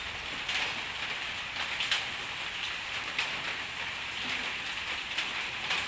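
Rain falling steadily, with scattered sharp drops ticking close by.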